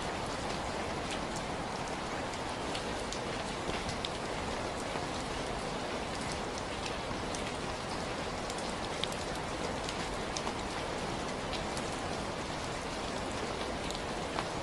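Steady rainfall: an even hiss of rain with scattered sharper drop ticks throughout.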